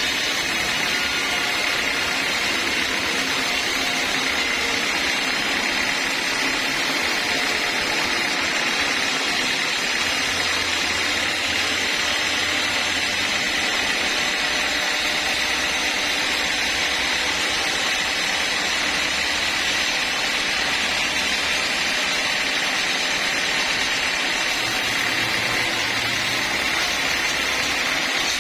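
Sawmill saw running steadily through a long straight lengthwise cut in a log, an even, unchanging machine noise with a strong hiss-like band.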